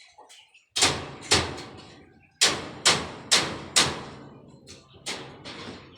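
Hand hammering: about eight sharp, hard blows in uneven groups, each dying away quickly.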